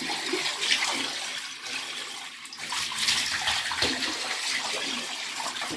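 Water running and splashing steadily as a water heater tank is flushed out through a hose on its drain valve. The flow eases a little about two seconds in and picks up again a second later.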